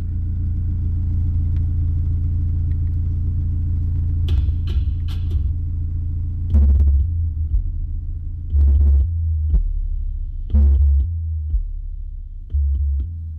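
Deep bass from a car audio system's subwoofer: a steady low rumble, with heavier bass notes swelling about every two seconds and a few short sharp hits over it.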